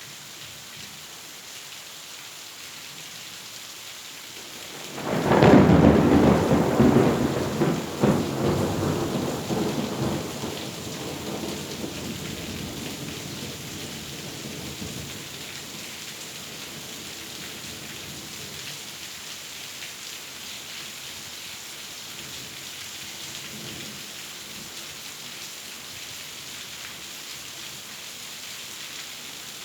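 Steady rain, then about five seconds in a sudden loud thunderclap that rumbles on and fades over several seconds while the rain keeps falling.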